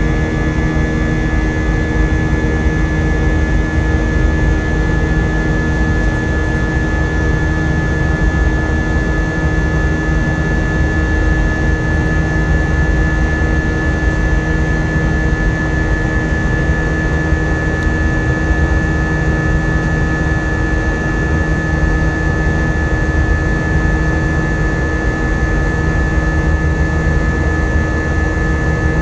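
Airbus A320's IAE V2500 jet engines running steadily, heard inside the passenger cabin as a loud, even rush with a steady high whine and lower hum over it.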